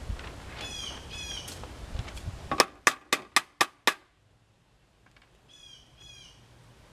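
Birds chirping in short repeated calls, with a run of six sharp taps, about four a second, in the middle.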